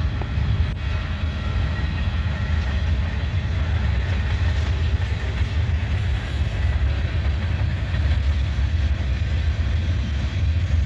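Freight train's cars rolling past on the rails with a steady low rumble.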